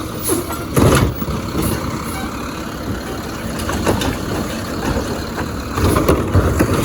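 Garbage truck engine running steadily, with a loud knock about a second in and a few more knocks near the end.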